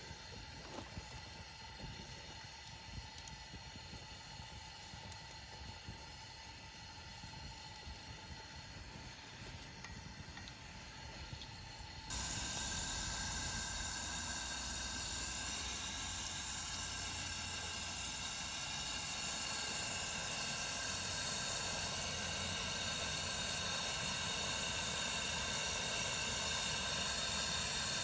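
Faint outdoor hush with a few light clicks, then about twelve seconds in a pressurized multi-fuel camp stove's burner is heard running with a loud, steady hiss.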